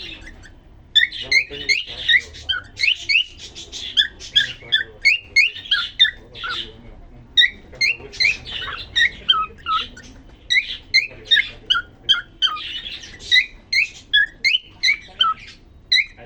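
Male cockatiel singing: a fast, chattering run of short chirps and whistled notes, many of them rising or falling in pitch, with brief pauses about a second in and again partway through.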